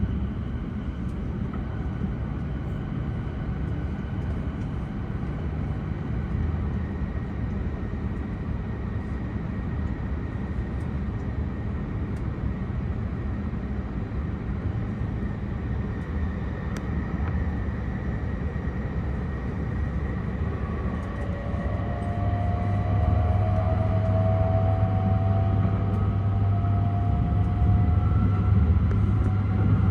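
Running noise inside a Tohoku Shinkansen car: a steady low rumble, joined about 21 seconds in by rising whines and a louder rumble as the train picks up speed.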